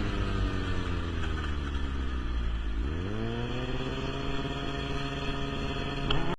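Motorcycle engine whose note falls slowly as it slows, then rises sharply about three seconds in and holds steady at higher revs. The sound cuts off abruptly at the end.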